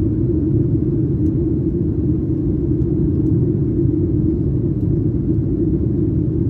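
Steady drone of a Boeing 737-900ER heard inside the cabin in flight, its CFM56-7B engines and the airflow making a constant low rumble, with a few faint ticks.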